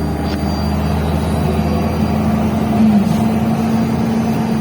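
MAZ-105 articulated city bus running on the road, heard from inside the passenger cabin: a steady engine hum whose tone climbs slightly and dips about three seconds in.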